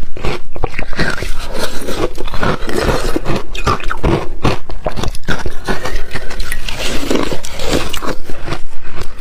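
Ice being bitten and chewed close to the microphone: a loud, dense run of sharp cracks and crunches.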